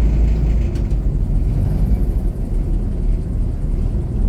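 Airboat's engine and air propeller running steadily with a loud, low rumble.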